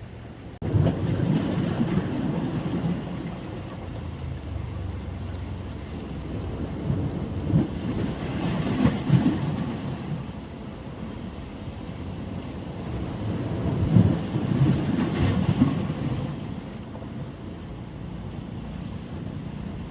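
Wind buffeting the microphone at the seashore, a low rumble that swells and eases in gusts, with surf washing on the beach beneath it.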